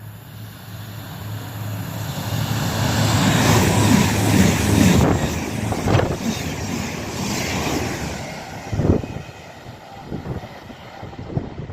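A train passing through the station: a steady low hum builds to a peak about four seconds in and then fades, with a few sharp knocks as it goes by.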